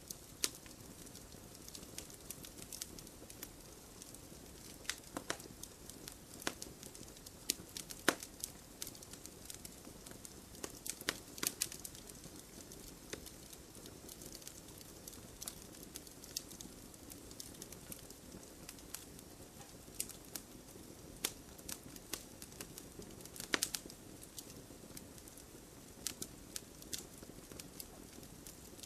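Wood campfire burning, with irregular sharp crackles and pops over a steady low hiss of the flames; the strongest pops come about eight seconds in and again past the twenty-three-second mark.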